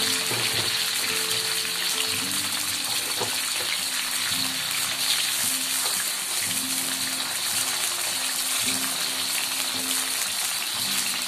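Chopped shallots, garlic and chilies frying in hot oil in a wok: a steady, dense sizzle. Background music with low held notes plays along.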